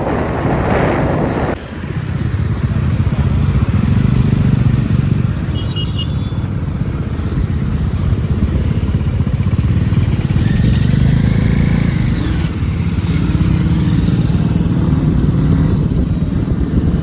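Motorcycle engine running steadily as the bike rides along, a continuous low drone. A louder rushing noise sits over it for the first second and a half.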